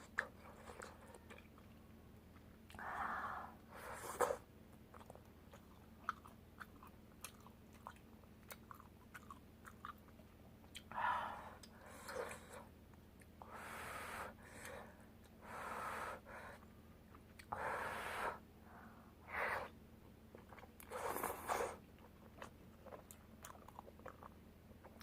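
Close-miked chewing and eating of spicy soup tteokbokki, in a run of short bursts every second or two.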